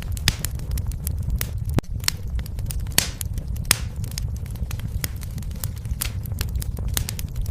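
Wood fire burning in a fireplace: irregular sharp crackles and pops over a steady low rumble, with a couple of brief hisses a few seconds in.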